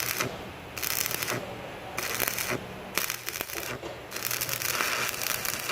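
Electric arc welding on a car's exhaust pipe near the manifold, sealing an exhaust leak. The arc crackles and sizzles in short bursts of about half a second each, then runs longer from about four seconds in.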